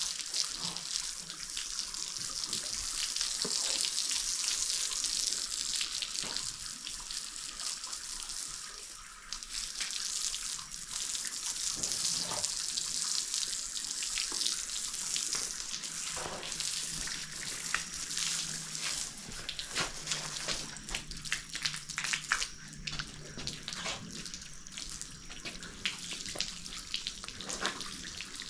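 Water running from a hose and splashing onto a horse as it is bathed, a steady rushing spray with scattered splashes.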